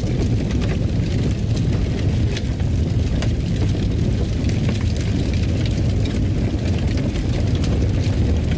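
Fire crackling in a fireplace: a steady low rumble with scattered sharp crackles and pops throughout.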